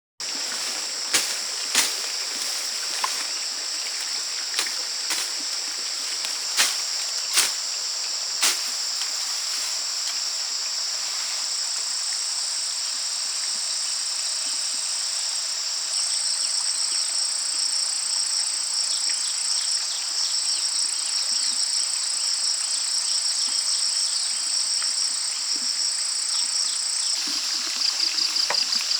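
Forest ambience: insects buzzing steadily at a high pitch, with running water underneath. About eight sharp clicks or knocks come in the first eight seconds, and the insect sound takes on a faster pulsing about halfway through.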